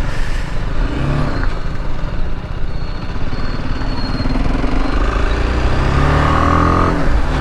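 Motorcycle engine running at road speed under a steady rush of wind noise on the microphone; near the end the engine note rises briefly and then drops.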